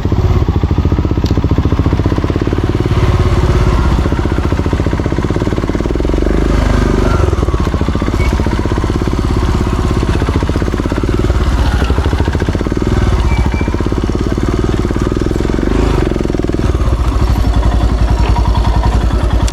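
Motorcycle engine running steadily while being ridden, its firing pulses even, with small swells in the engine note.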